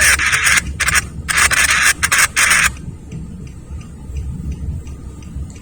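Close rubbing or brushing noise right at the microphone, in two spells: one dying away just after the start and a second, longer one from about a second in that lasts about a second and a half. After that only a low steady rumble remains.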